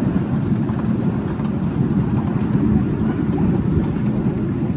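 Steady low rumble of a miniature passenger-carrying railway train running along its track.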